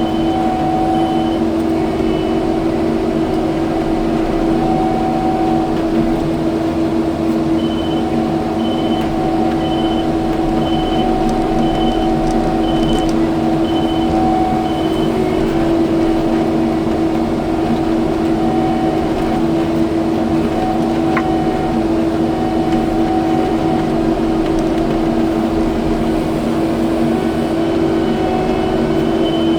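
Kubota skid steer's diesel engine running steadily under work, a constant drone. A high beep repeats about once a second at times.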